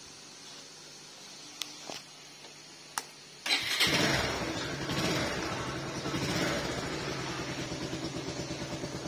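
A few light clicks, then about three and a half seconds in the Bajaj Pulsar 150's single-cylinder engine starts and settles into a steady idle with an even pulse. To the mechanic the engine sounds fine, with no fault to be heard despite the poor-mileage complaint.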